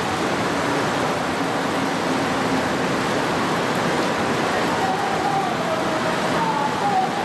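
Heavy typhoon rain pouring down, a dense steady hiss that holds at an even level throughout.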